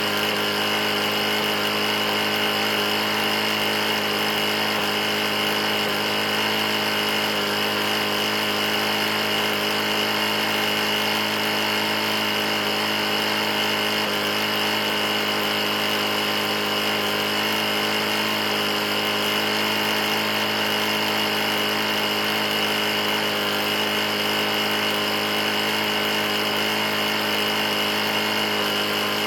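Briggs & Stratton single-cylinder engine on a Murray push mower running steadily at a constant speed. The engine has a bad knock and was found with its oil run out.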